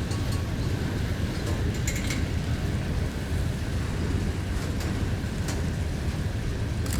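A train rolling past: a steady low rumble with a few sharp clicks and a brief high squeal about two seconds in.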